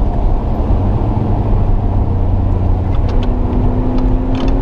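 Rally car's engine and road noise heard from inside the cabin at speed. From about three seconds in, the engine note climbs slowly as the car accelerates.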